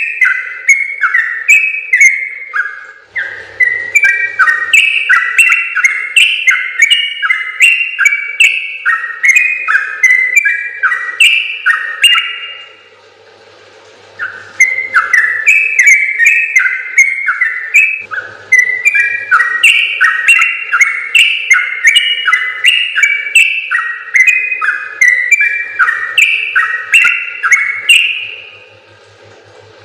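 Yellow-vented bulbul (trucukan) singing its long, rapid song: quick, bright chattering notes, about three or four a second, in three long runs broken by short pauses. A faint steady hum sits underneath.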